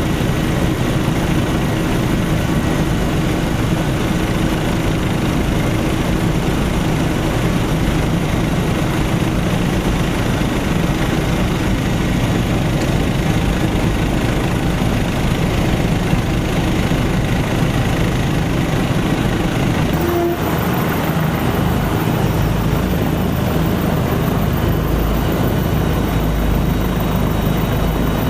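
Helicopter turbine and rotor noise: a loud, steady mechanical drone with a low hum, briefly interrupted about twenty seconds in.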